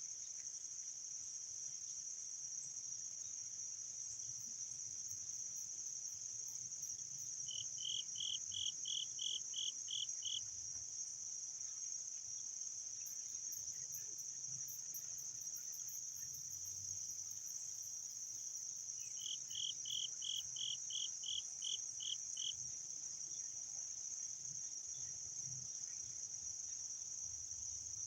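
Steady, unbroken high-pitched trilling of a cricket chorus. Twice, about eight and nineteen seconds in, a run of about ten quick, evenly spaced, lower, louder notes cuts in over it for two to three seconds.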